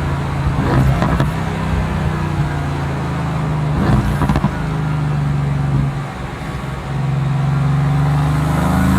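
Mercedes-AMG GT S twin-turbo V8 running under way, with short bursts of exhaust crackle about a second in and again around four seconds. The engine note dips briefly around six seconds, then climbs steadily as the car accelerates near the end.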